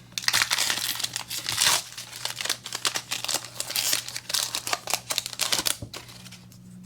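Foil wrapper of a trading-card booster pack being torn open and crinkled by hand: dense crackling, loudest in the first two seconds, dying away about six seconds in.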